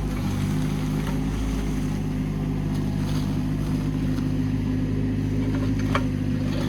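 Hitachi ZX18 mini excavator's diesel engine running steadily, with a faint click about six seconds in.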